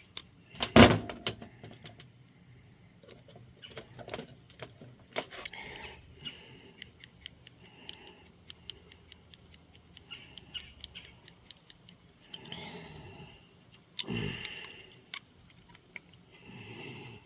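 Small metal parts and a hex driver clicking and clinking while parts of an RC nitro engine mount are handled and screwed together. There is a sharper knock about a second in and a scatter of quick ticks after it.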